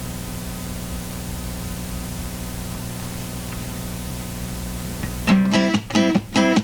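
A steady droning hum with hiss, then about five seconds in a guitar starts strumming chords in quick, even strokes.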